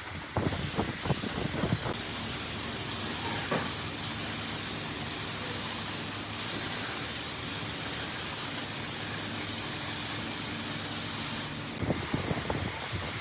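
Compressed-air spray gun hissing steadily as it sprays, with brief cut-offs about four, six and seven seconds in and a longer half-second stop near the end. A few light knocks come in the first couple of seconds.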